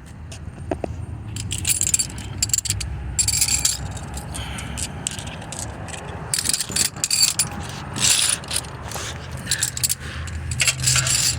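Metal hand tools clinking and rattling in irregular bursts while someone works under a car, over a low steady hum.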